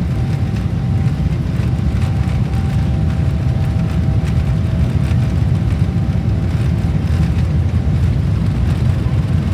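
Steady loud rumble and rush of airliner cabin noise inside a Boeing 777-300ER, engines running, with two faint steady hums above it.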